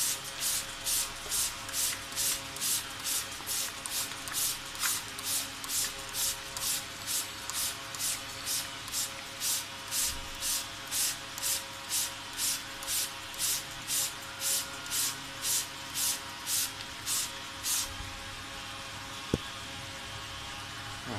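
Hand-pumped trigger spray head on a plastic soda bottle squirting water in quick, even hissing sprays, about two a second; the spraying stops about eighteen seconds in, and a single sharp click follows shortly after.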